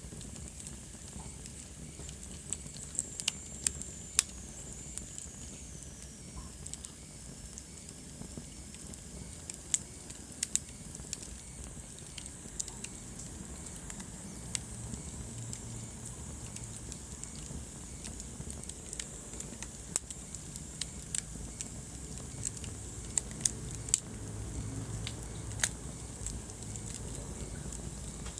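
Wood fire burning in a fireplace: a steady low rumble and hiss with irregular sharp crackles and pops. A faint high whistle falls in pitch a few seconds in.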